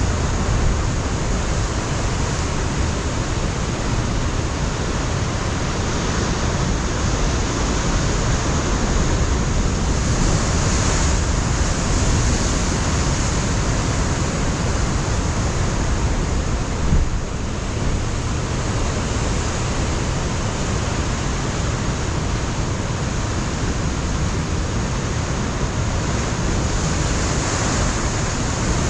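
Ocean surf breaking on a rocky shore, a steady rushing wash with wind buffeting the microphone, and a brief gust-like bump a little past halfway.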